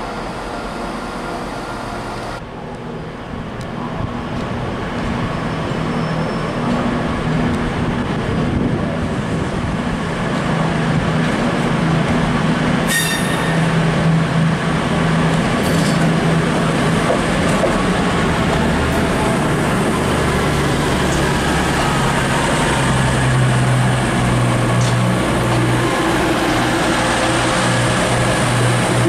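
A train running through the station, its low, steady multi-tone hum growing gradually louder, with a few brief sharp clicks, the clearest about halfway through.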